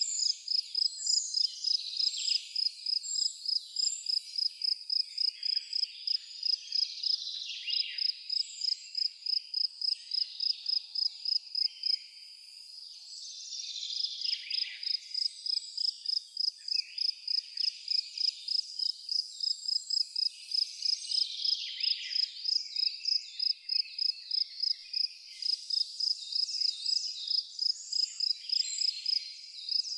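A cricket chirping in a steady, even rhythm of about three high chirps a second, breaking off briefly near the middle, with birds twittering in short scattered calls behind it.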